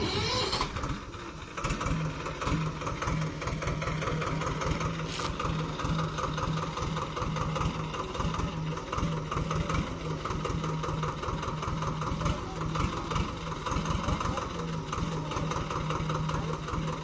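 Swaraj tractor's diesel engine idling steadily, with a rapid, even clatter of firing strokes.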